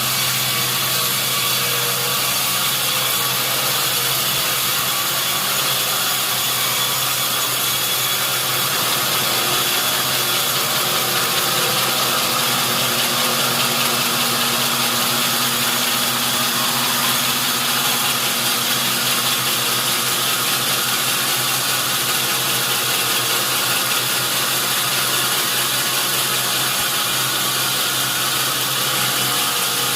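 Sawmill saw running steadily through a large mahogany log, a continuous even noise with a constant low hum underneath.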